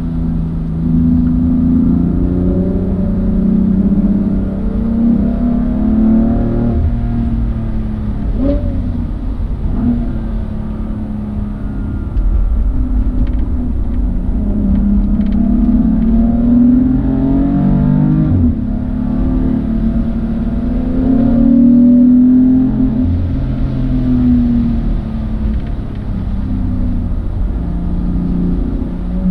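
Car engine working hard, the revs repeatedly climbing and dropping as it goes up and down through the gears, with short breaks at the gear changes. A steady hiss of tyre and road noise runs underneath.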